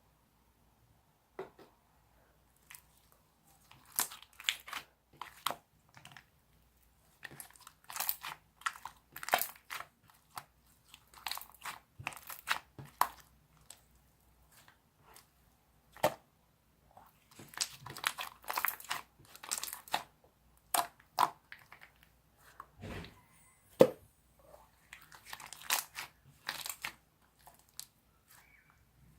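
Hands pressing, stretching and folding a glossy juice slime, making runs of crackling and popping sounds broken by short pauses.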